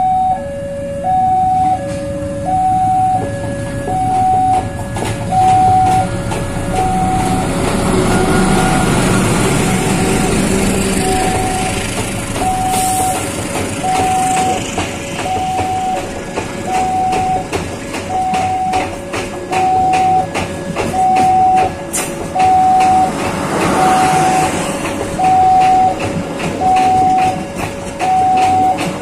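Passenger train running past at close range. It is loudest about eight to eleven seconds in, and the wheels click over the rail joints in a quick, even rhythm. Over it a level-crossing warning alarm keeps sounding its two alternating notes, high and low, about once a second each.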